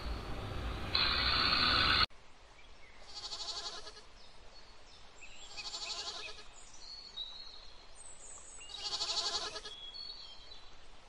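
A young goat kid bleating three times, each call about a second long and a couple of seconds apart. Before the calls, a loud steady rushing noise cuts off abruptly about two seconds in.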